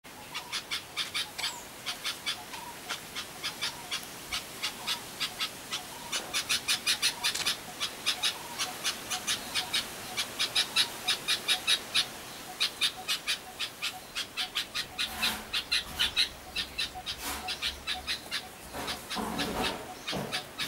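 Small birds chirping: a long run of short, high chirps, about four or five a second, with brief pauses between the runs.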